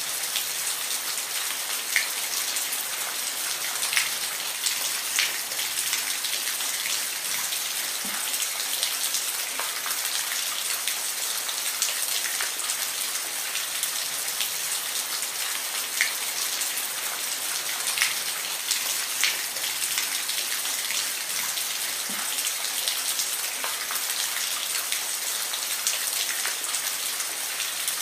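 Steady rain, an even hiss with now and then a single louder drop striking close by.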